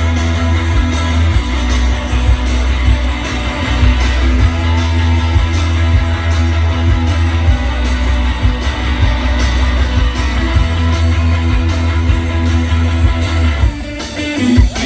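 Live rock band playing loudly, with electric guitars over a heavy bass and drums in a mostly instrumental stretch. The bass drops out near the end.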